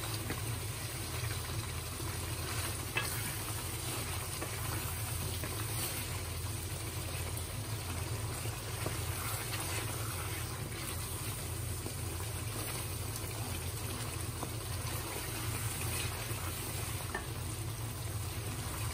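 Thick tomato-and-chicken masala sizzling as it fries down over high heat in an aluminium karahi, stirred and scraped with a wooden spoon, with a low steady hum underneath.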